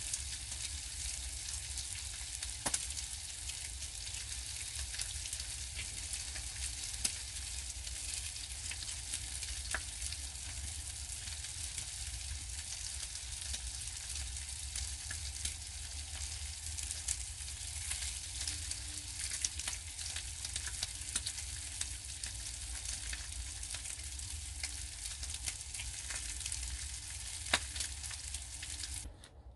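Food frying in a pan: a steady sizzling hiss scattered with sharp crackles and pops, over a steady low hum. It cuts off suddenly just before the end.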